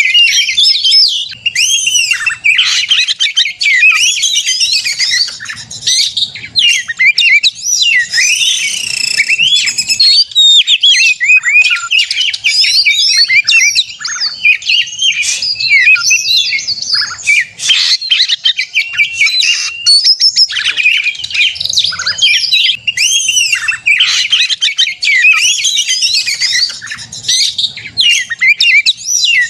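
Oriental magpie-robin (kacer) in full, vigorous song: a loud, unbroken stream of rapid, varied whistles, chirps and sliding notes.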